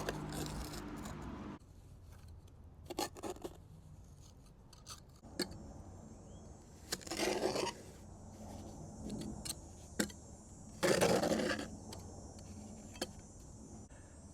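Steel pointing tool scooping wet mortar off a board and packing it into the joints between flagstones: irregular short scrapes and light clicks, the two longest scrapes about halfway and three-quarters through.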